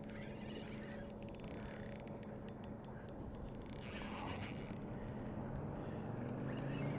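Motorboat engine hum from passing boat traffic, growing louder toward the end, with scattered small clicks and scrapes.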